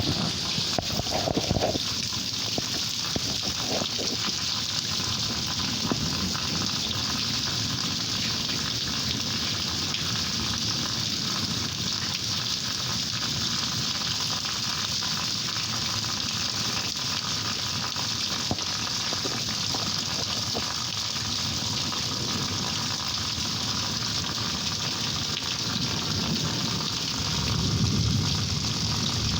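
Steady rain falling during a thunderstorm, an even hiss with no break. A low rumble swells near the end.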